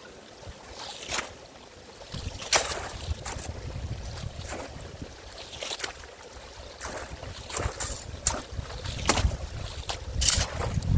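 Strong wind rumbling on the microphone, with irregular sharp swishing scrapes about every second as a rake is drawn through wet leaves along a garden stream.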